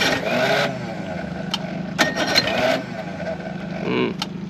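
Outboard motor running steadily at idle, with two short rushing bursts of noise about two seconds apart.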